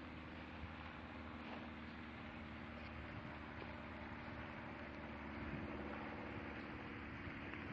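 Steady low rumble and hiss with a faint hum, like distant traffic or engine noise, and no distinct event.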